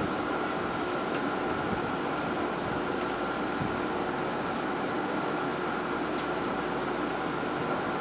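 Steady whir of a running fan with a faint constant high tone, and a few faint light clicks.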